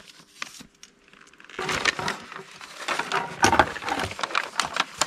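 Rustling and clicking of small packages and plastic bags being handled and rummaged through, starting about a second and a half in and carrying on in a busy run of crinkles and taps.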